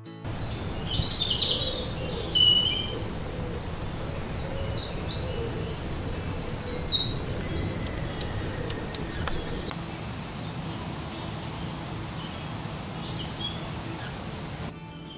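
Woodland birdsong. A few short high chirps come first, then about four seconds in a songbird sings a loud, fast trilling phrase of rapidly repeated notes lasting about three and a half seconds. A steady low background rumble runs underneath.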